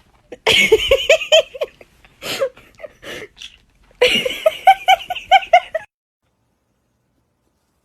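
High-pitched laughter in two quick bouts of ha-ha pulses, about five a second, with a few single cries between; it cuts off suddenly near the end.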